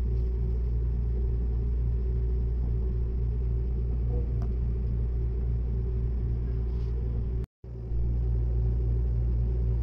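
Steady low rumble of a Seibu Laview (001 series) limited express train running, heard from inside the passenger cabin. It cuts out completely for a moment about seven and a half seconds in, then carries on the same.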